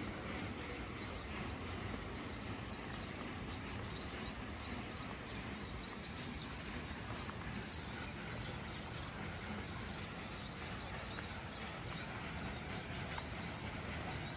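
An insect chirping in short, regular pulses about twice a second, starting a few seconds in, over a steady low outdoor background noise.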